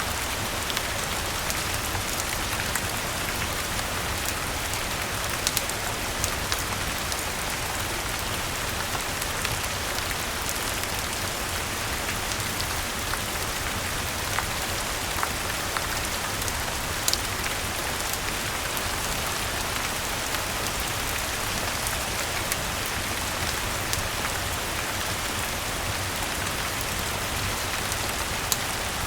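Steady rainfall hiss with scattered sharp pops of a crackling wood fire.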